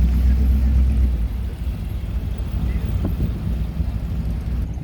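A car engine running as it drives past, a low rumble that drops off about a second in.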